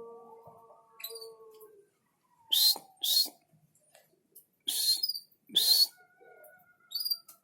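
Small birds calling: a held whistled note with faint chirps at first, then four loud, short, harsh calls in two pairs, and one more near the end.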